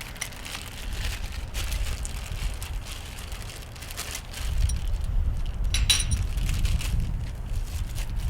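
Low wind rumble on the microphone, stronger from about halfway through, with small handling clicks and rustles and one sharp metallic clink near six seconds in.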